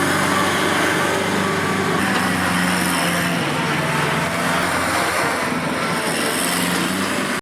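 Farm tractor's diesel engine running steadily under way.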